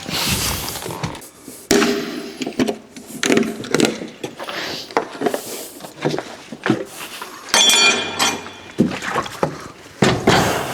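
Irregular knocks and thuds of hands-on handling work, with a metallic clang that rings briefly about eight seconds in.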